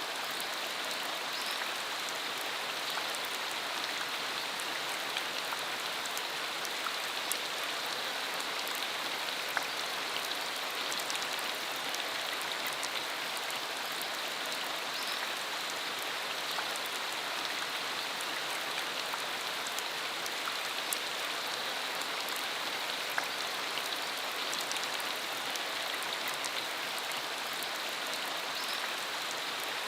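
Rain shower falling steadily on a country road: an even, continuous hiss scattered with many sharp ticks of individual drops.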